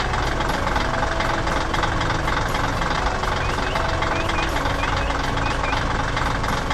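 A heavy construction-vehicle engine running steadily, with short high squeaks recurring every half second or so.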